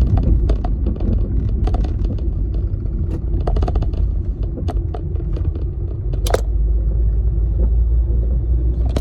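Car driving: a steady low rumble of road and engine, with scattered small clicks and rattles and one sharper click a little after the middle.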